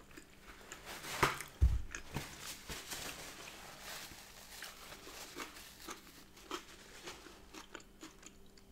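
Close-miked chewing of a smoked salmon and cream cheese bagel, with small wet mouth clicks. A paper towel rustles as it is pulled from a kitchen roll and wiped across the mouth, and there are a couple of soft knocks between one and two seconds in.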